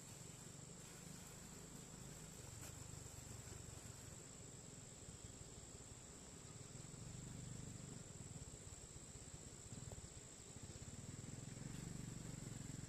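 Faint, steady high-pitched chirring of insects such as crickets, over a low rumble that swells twice, once in the middle and again near the end.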